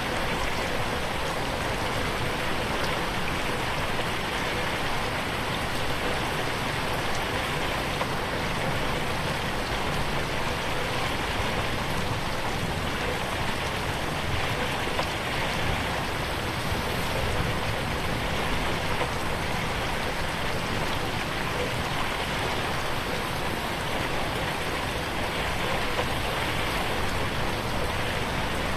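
Rain falling steadily on a window, an even hiss with no thunder or pauses.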